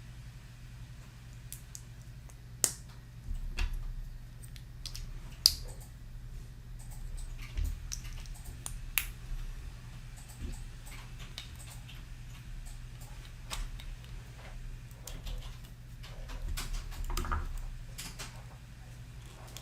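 Plastic building bricks clicking and rattling as they are handled and pressed together: scattered sharp clicks, with a few soft low thumps, over a steady low hum.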